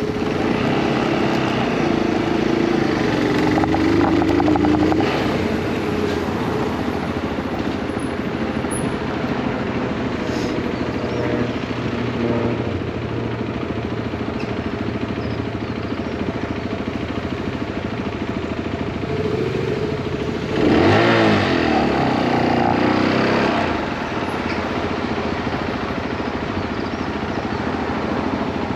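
Motorcycle engine running continuously while riding, its note rising and falling over the first few seconds. About 21 seconds in, a louder engine sound sweeps up and down in pitch for about three seconds.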